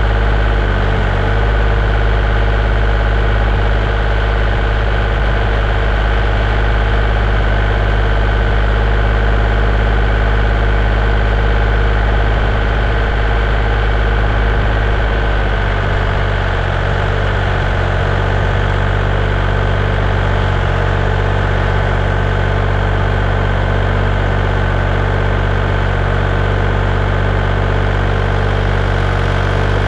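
Heavy-equipment engine idling steadily; its note shifts slightly about halfway through.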